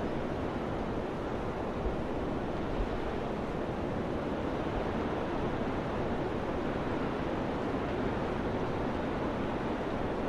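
Steady rushing wind, with two brief low thumps of wind buffeting the microphone about two and three seconds in.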